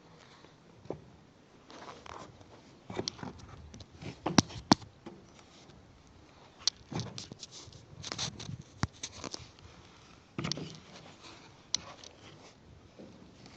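Irregular clicks, light knocks and short rustles of handling, with two sharp knocks in quick succession about four and a half seconds in.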